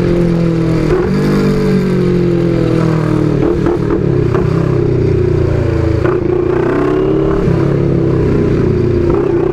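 CFMoto 400NK's parallel-twin engine running as the bike is ridden, its pitch easing up and down a little with the throttle.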